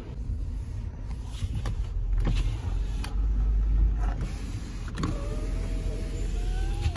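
Car cabin noise while driving: a steady low road rumble with a few sharp clicks and knocks, and a faint thin whine rising slowly over the last two seconds.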